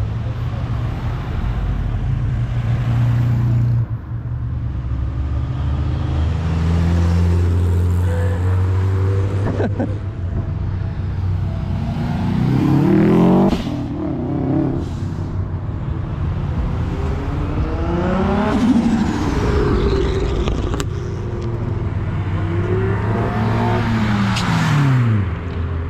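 Classic car engines running as cars drive past one after another, with a steady low engine hum underneath. Engines rev up and fall away three times: about halfway through, about two-thirds through and near the end.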